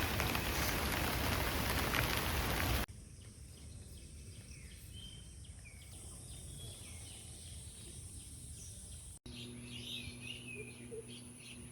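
Steady hiss of rain for about three seconds, then a sudden cut to quiet outdoor ambience with birds chirping. After a second cut near the end, more bird calls come over a faint low steady hum.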